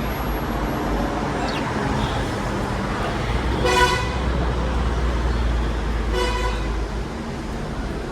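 Two short honks about two and a half seconds apart, the first louder, over a steady low rumble of road traffic.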